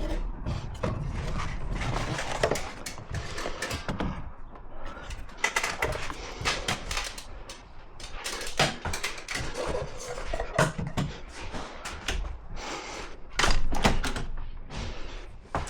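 Irregular clicks, knocks and scraping from hand work with tools and parts, at uneven intervals with a few louder knocks.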